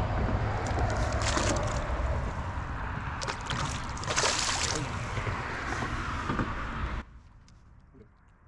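Wind rumbling on the microphone and water sloshing around a kayak, with two louder splashy bursts, the stronger about four seconds in. The sound drops off abruptly near the end.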